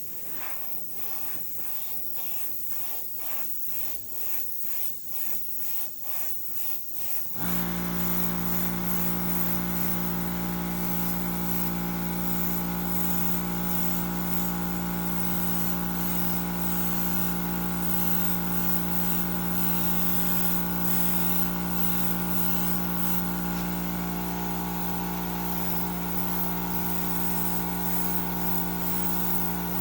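Rhythmic strokes about twice a second, then about seven seconds in a small air compressor for airbrush painting starts and runs steadily, with a constant hum and a hiss of air and spray.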